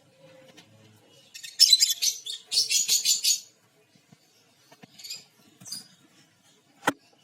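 Peach-faced lovebirds giving high, scratchy chattering calls: a loud burst of about two seconds, then a few shorter calls. A single sharp click near the end.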